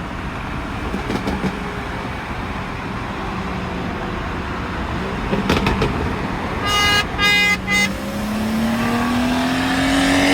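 Road and engine noise from a moving car, then a car horn honking three quick times, followed by an engine pulling hard with its pitch rising steadily under full-throttle acceleration in a roll race.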